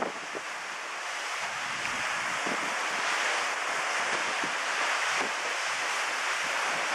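Steady rushing hiss of wind and water, with a few faint ticks.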